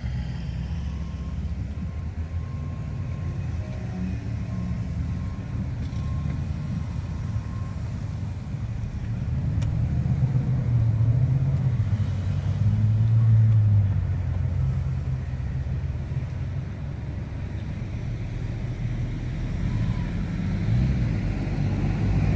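Road traffic at a city intersection: a steady low rumble of passing vehicles, swelling as a vehicle goes by about halfway through and again near the end.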